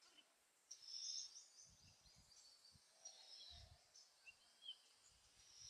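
Near silence in open woodland, with a few faint, high bird chirps, one of them rising in pitch, and a few soft low thumps.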